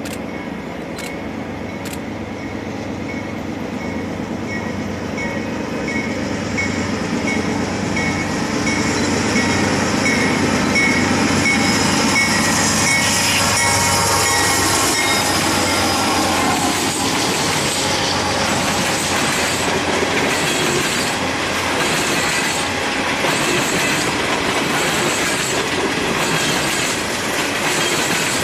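A freight train drawn by GE diesel locomotives approaches and passes close, the engine sound swelling and dropping in pitch as the locomotives go by about halfway through. A bell rings steadily until the locomotives pass. After that, open-top coal hopper cars roll by with a steady clickety-clack of wheels over rail joints and high wheel squeals.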